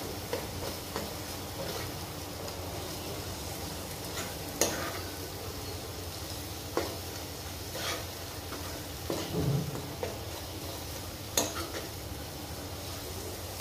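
Onions and a ground spice masala paste sizzling as they fry in a non-stick kadhai, stirred with a steel spoon. The spoon scrapes and knocks against the pan with a sharp click now and then.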